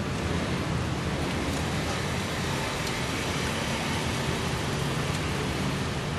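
Datsun GO+ engine running steadily at a constant speed during an engine carbon-cleaning treatment, with a strong even hiss over a low hum.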